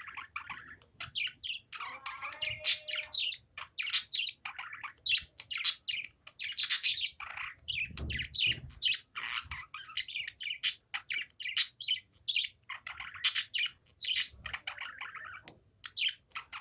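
Budgerigar chattering: a rapid, unbroken run of short, high chirps and warbles.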